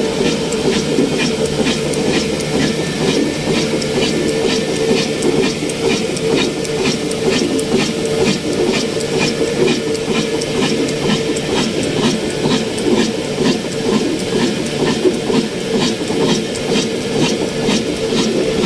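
Old slow-speed 22/24 HP diesel oil engine running steadily under the load of a small flour mill, with a regular sharp ticking beat about three times a second over a steady drone and hiss.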